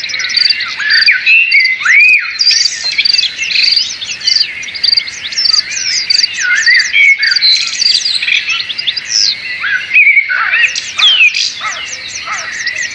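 Many small birds chirping and calling at once: a dense, overlapping chorus of short chirps and whistles.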